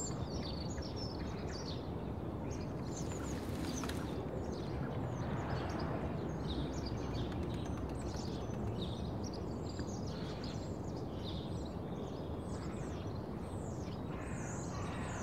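Birds chirping in many short calls over a steady low background noise.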